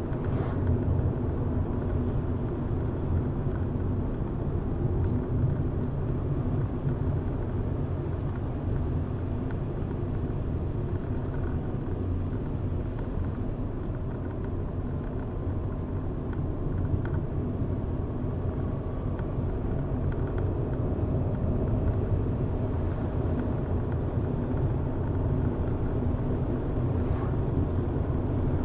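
Car driving steadily on a road: a constant low rumble of engine and tyre noise, with a faint hum running through it.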